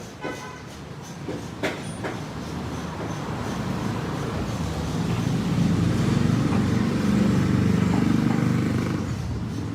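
A vehicle engine running, growing louder over a few seconds and then easing off, with a few sharp clicks near the start.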